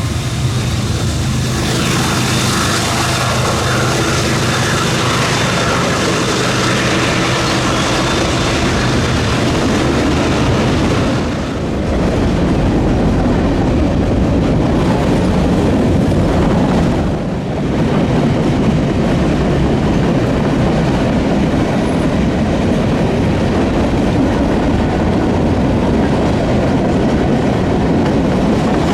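CSX freight train passing close by. For the first ten seconds or so there is a steady low hum; after that comes a louder, continuous rumble of wheels running over the rails as the cars roll past.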